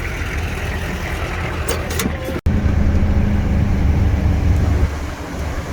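1985 GMC C30's 6.2L diesel V8 running steadily while towing a trailer, with road noise. About two and a half seconds in, the sound cuts off abruptly and comes back louder, with a steady low drone.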